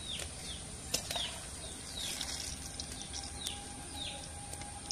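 A bird repeats a short falling chirp about every half second over the steady sizzle of banana fritters deep-frying in a wok of oil, with a few sharp clicks of the metal spatula against the wok.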